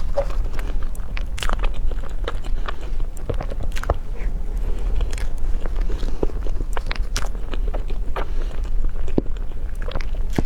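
Close-miked eating: a person biting and chewing food, with many irregular sharp clicks and crunches.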